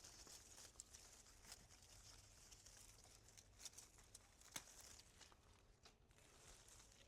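Near silence, with faint rustling and a few scattered light clicks, the sharpest about four and a half seconds in.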